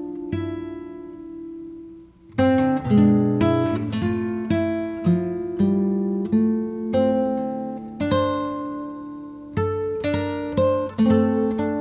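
Background music of a plucked acoustic guitar: single notes and chords that ring and decay, thinning to a short pause about two seconds in before picking up again.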